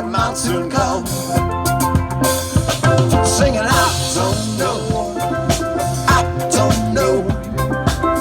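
Live band playing an island-style pop song, with drum kit and a steady bass line under sustained pitched instruments.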